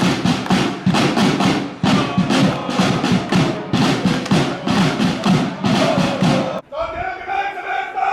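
Football supporters chanting in unison over a steady beat of about three strokes a second; the chant breaks off abruptly near the end and gives way to a long drawn-out shout from the crowd.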